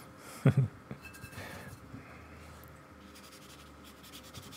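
Damp paintbrush scrubbing back and forth on the painting surface in quick strokes, lifting off a gouache-painted bridge leg by reactivating the paint. A short loud bump comes about half a second in.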